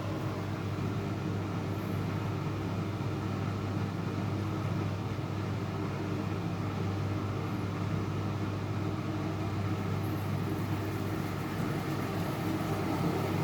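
Front-loading washing machine running a load of blankets: a steady motor hum with a wash of noise over it, getting slightly louder near the end.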